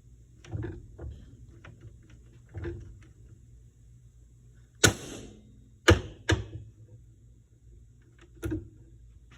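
Hammer blows on the steel steering linkage of a 1960 Chevrolet Impala, striking to break the power steering cylinder's tapered joint free. A few softer knocks, then sharp metallic clanks, the loudest about five and six seconds in and again near the end.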